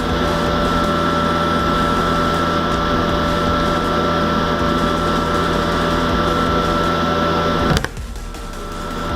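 A small motor-driven machine running steadily with a constant whirr, cutting off with a click about eight seconds in and building back up near the end.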